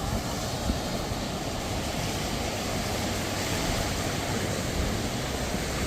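Sea surf washing onto a sandy beach, a steady rushing noise, with wind rumbling on the microphone.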